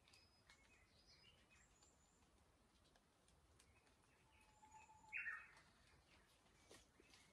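Quiet forest with faint, scattered short bird chirps, some high and thin, and one louder brief sound about five seconds in.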